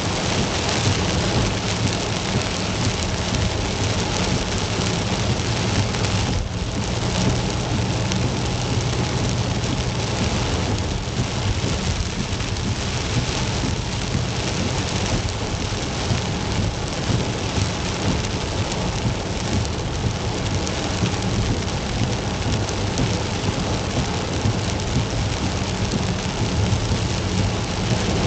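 Heavy, steady rain drumming on a Mazda 3 sedan, a dense, even hiss over a low steady rumble, with a brief break about six seconds in.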